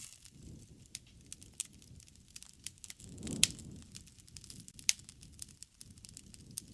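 Open wood fire crackling: irregular sharp pops and snaps over a low rush of burning flames. The loudest pop comes about halfway through, during a brief swell of the flame rush, with another sharp snap shortly after.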